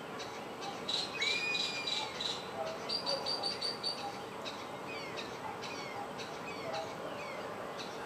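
Several wild birds calling together: a slurred whistle about a second in, a quick run of about six high piping notes around three seconds in, and short down-slurred chirps after that.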